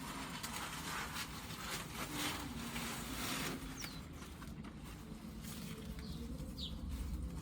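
A flying insect buzzing with a wavering, rising and falling hum, over wind noise, with two short bird chirps in the second half.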